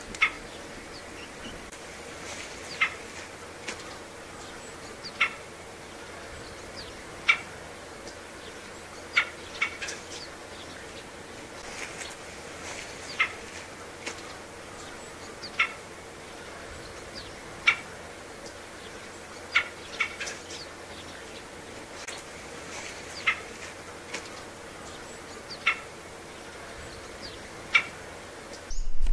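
A bird repeating a short, sharp call note about once every two seconds.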